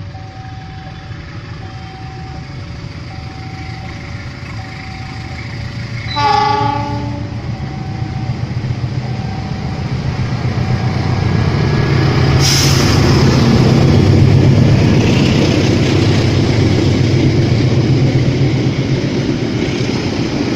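A level-crossing warning signal alternating between two tones about once a second, a short train horn blast about six seconds in, then a diesel-hauled train passing close by, its engine rumble and wheels on the rails growing loud in the second half.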